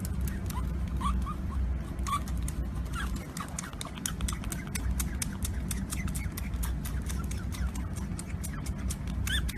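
Short, high rising chirps from a small animal, several over the first few seconds, over a steady low rumble and many quick clicks.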